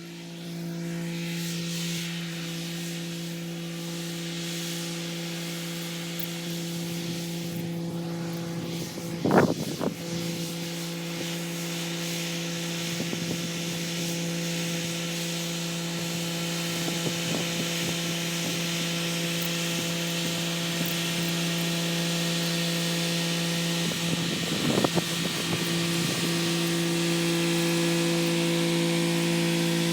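Kubota SL35 tractor's diesel engine running at a steady working speed with its rotary tiller turning, plus two loud clunks, about nine seconds in and again near the twenty-five-second mark.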